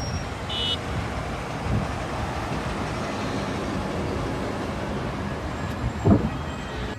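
A steady rumbling, hissing noise, with a low thump about two seconds in and another near the end.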